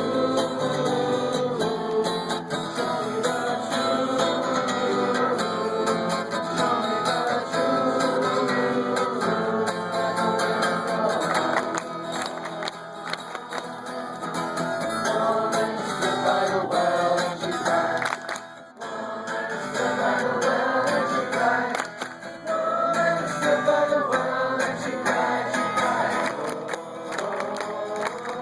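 A group singing a song together to acoustic guitar strumming, with a short break about two-thirds of the way through.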